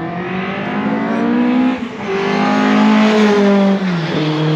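Racing pickup truck engine at full throttle, its pitch climbing, dipping briefly at a gear change about two seconds in, climbing again and then dropping as the truck goes past.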